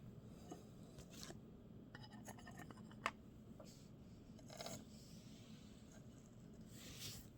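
Near silence with faint scrapes and swishes of small cardboard trading cards being slid and handled, and one small click about three seconds in.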